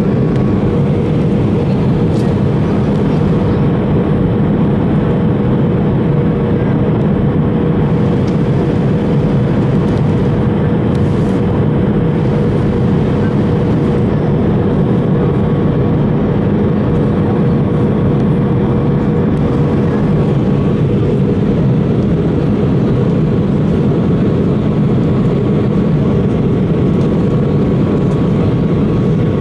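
Airbus A320 cabin noise in flight on approach: a steady roar of engines and airflow with a faint, even whine over it.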